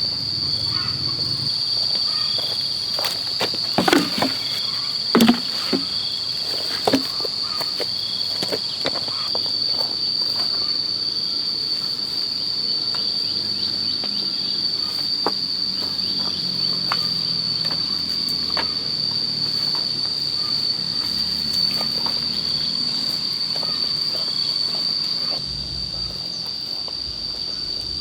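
Insects droning in one steady, high, unbroken tone. A few sharp knocks stand out over it in the first seven seconds or so.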